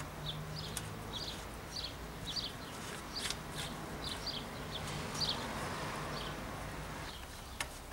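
A small bird chirping repeatedly, short high chirps about twice a second, over a low steady hum, with a few sharp clicks.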